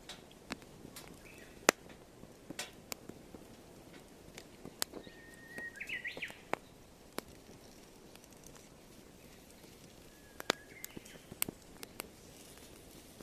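Firewood burning in a compact fire pit, crackling with sharp irregular pops. A bird calls briefly twice in the background, about halfway through and again near the end.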